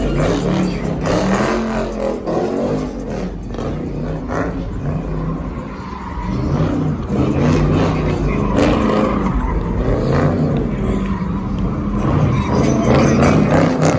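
Car engines running and revving, their pitch rising and falling again and again.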